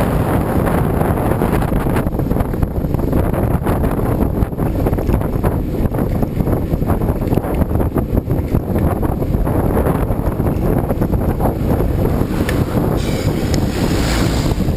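Steady, heavy wind buffeting the microphone, a dense low rumble with a brief brighter hiss near the end.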